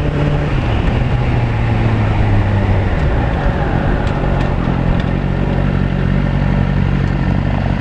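Suzuki GSX-R1000's inline-four engine running through a Yoshimura exhaust while under way, over wind and road noise. The engine note drops about a second in, then holds steady at a somewhat higher pitch from about three seconds.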